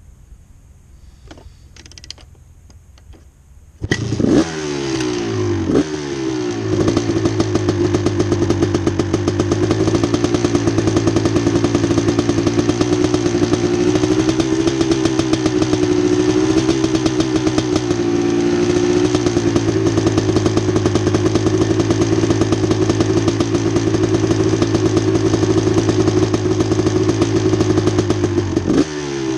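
1989 Honda CR250's two-stroke single-cylinder engine starting suddenly about four seconds in and revving briefly a couple of times. It then runs steadily as it warms up, with more quick throttle blips near the end.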